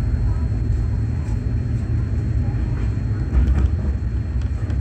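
Running noise of a Rajdhani Express passenger train in motion: a steady low rumble of wheels on rail, with a few brief knocks about three and a half seconds in.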